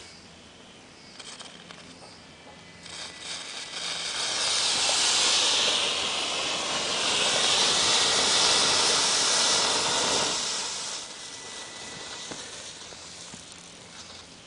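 Potassium nitrate and sugar mixture flaring up and burning with a loud, steady hiss. The hiss begins about four seconds in, lasts about seven seconds and then dies down, with a few faint crackles before it.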